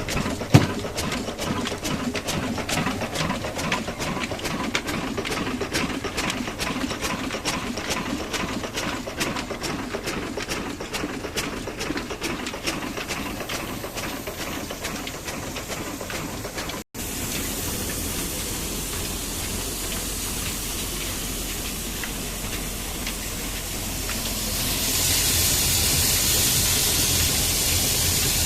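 Engine-driven mini flour mill machinery running: a fast, steady clatter over a low hum. After a break about two-thirds of the way in, a steadier hum follows, and a loud hiss comes in near the end.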